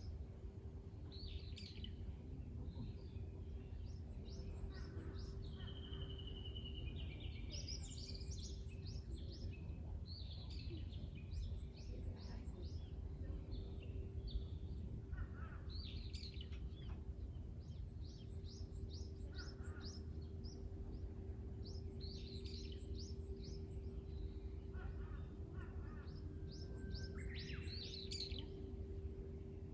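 Several wild birds singing: rapid series of short high chirps repeat throughout, and a held whistle comes about six seconds in. A steady low hum and rumble lie underneath.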